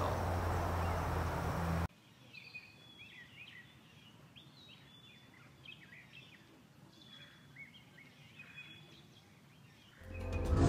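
Faint chirping of small birds in woodland, many short high calls scattered over a quiet background. A steady low hum cuts off abruptly about two seconds in, and music comes in near the end.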